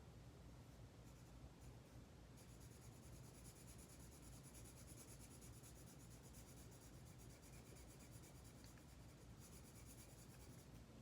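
Faint scratching of colouring strokes on paper, starting to come through more clearly about two seconds in, over a steady low hum.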